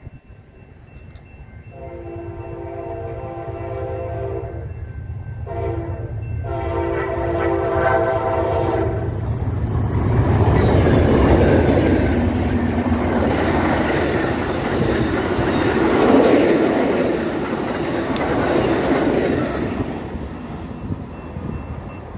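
Amtrak California Zephyr led by ALC-42 locomotives sounds its horn in three blasts, long, short, then long, the last ending about nine seconds in. Then the locomotives and passenger cars pass close by with loud engine and wheel-on-rail noise that peaks twice and eases near the end.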